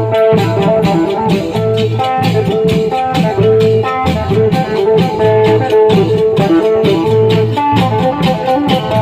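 Thai klong yao long-drum band playing a fast, steady dance rhythm: deep drum beats and bright cymbal clashes under a held melody line.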